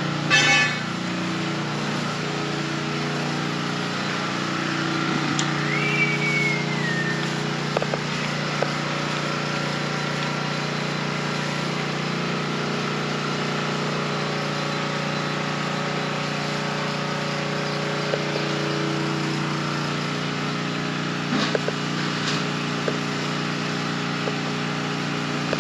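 A motor or engine running steadily with an even, unchanging hum. A short whistle-like glide rises and falls about six seconds in.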